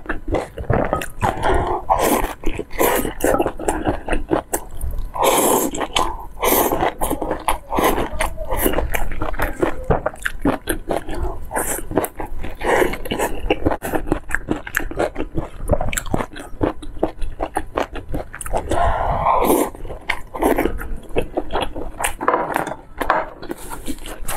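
Close-miked mouth sounds of a person biting and chewing boiled dumplings dipped in broth, with many quick, wet clicks and smacks.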